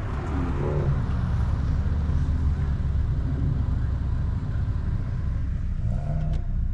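Car engines idling, a steady low rumble.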